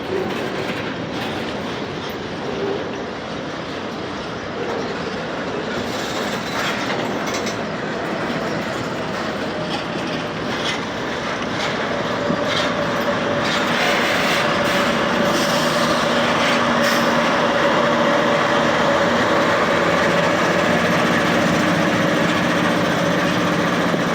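Slow freight train rolling past, its wheels clicking over the rail joints. About halfway through, the steady engine drone of the rear pushing diesel locomotive grows louder as it arrives.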